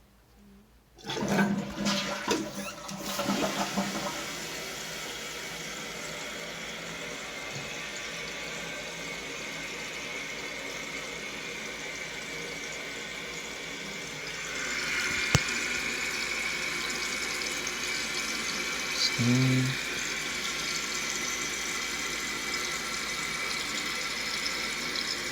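2020 Jacuzzi Lyndsay toilet flushing about a second in, then the tank refilling with a steady rushing hiss through the fill valve. The refill sound turns higher and louder about halfway through and cuts off suddenly at the end as the fill valve shuts.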